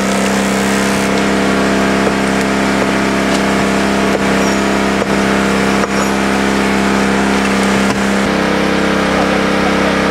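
Small engine running steadily under load, its tone shifting slightly about eight seconds in, with a few faint clicks.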